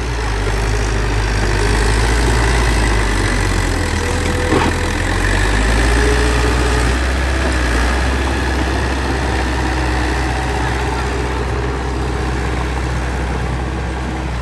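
Bulldozer's diesel engine running steadily with a deep rumble, and a single sharp knock about four and a half seconds in.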